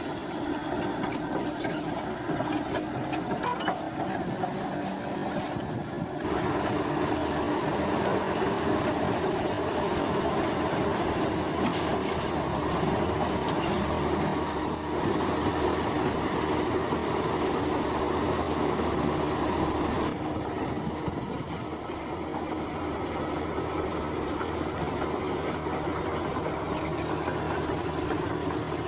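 Komatsu crawler bulldozer working: its diesel engine running steadily while the steel tracks clank and give repeated high squeals.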